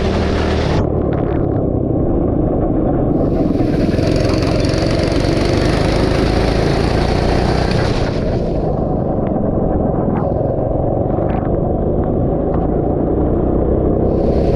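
Go-kart engine running steadily as the kart laps a wet track. A stretch of hiss joins it from about three seconds in and fades near eight seconds.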